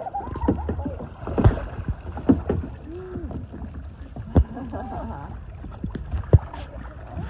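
Kayak paddling on the water: a few sharp knocks of paddles against the hull, with water noise and wind rumbling on the microphone. A few short voice-like calls are mixed in.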